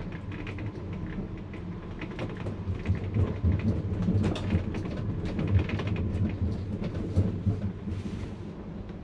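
Noisy running sound of the Great Southern passenger train heard inside a sleeper cabin: a steady low rumble with many clicks, rattles and creaks from the carriage, louder in the middle.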